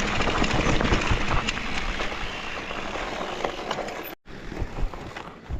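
Mountain bike riding fast down a rough dirt trail: a steady rushing noise of tyres on the ground, with many small clicks, knocks and rattles from stones and the bike. About four seconds in it cuts out abruptly for a moment, then returns quieter.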